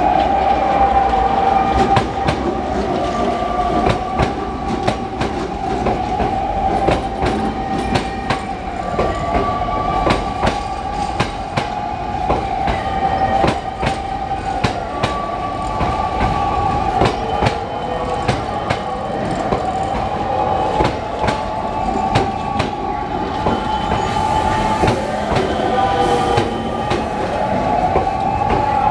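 Hankyu electric train running slowly over the pointwork, its wheels clacking irregularly over rail joints. A steady, wavering squeal from the wheels runs underneath the clacks.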